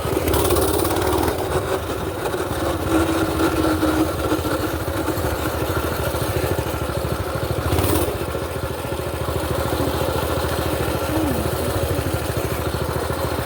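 Small mini bike engine running steadily as the bike rides along a trail, with a brief rush of noise about eight seconds in.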